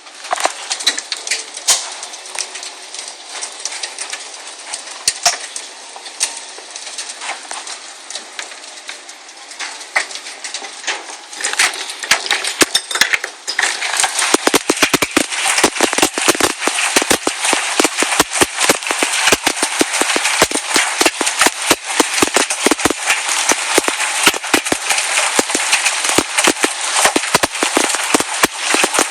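Large hailstones pelting hard surfaces: a steady hiss with scattered sharp cracks at first, then, from about twelve seconds in, a dense, rapid clatter of hard impacts.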